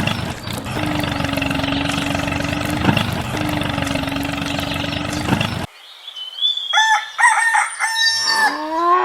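A steady mechanical hum with one constant tone, dipping briefly twice, cuts off suddenly. A moment later a rooster crows, its call rising and then falling away.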